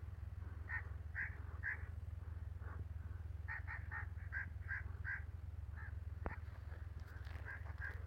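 Short animal calls repeated in irregular runs, with a quick series of about six just after the middle, over a steady low hum.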